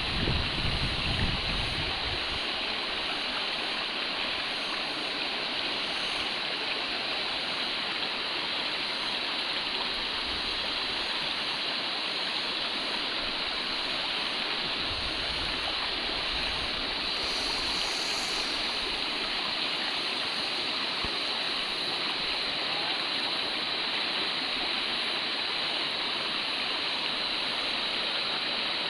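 River water rushing steadily over large rocks. A little low wind rumble hits the microphone in the first couple of seconds.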